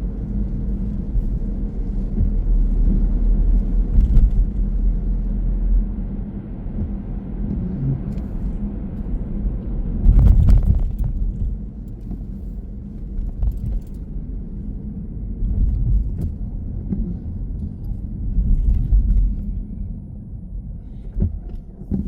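A car being driven, with a steady low rumble of road and engine noise and a louder bump about halfway through. The rumble eases somewhat in the second half.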